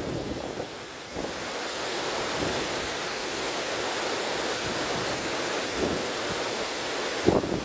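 River water rushing steadily, with wind blowing; a brief louder surge of water near the end.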